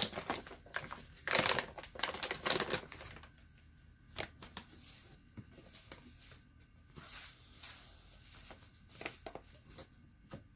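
Rustling and scraping as ground coffee is scooped into the small percolator basket of an Esbit coffee maker, louder in the first few seconds, then sparse light clicks and taps.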